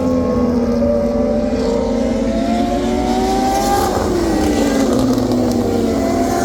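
MotoGP racing motorcycle engines at high revs. The pitch climbs for a few seconds, drops sharply about four seconds in, then climbs again near the end, like bikes accelerating through the gears.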